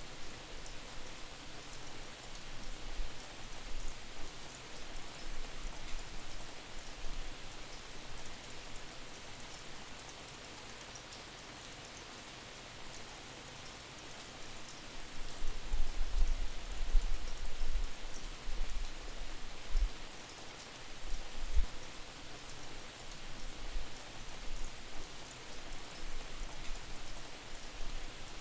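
Steady rain falling, with gusts of wind buffeting the microphone as distorted low rumbles that come and go and are strongest from about halfway through. The rain is panned from side to side.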